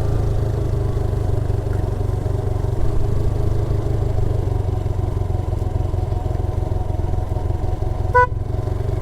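Motorcycle engine running steadily at low revs under engine braking on a slow downhill ride, with a short horn beep about eight seconds in.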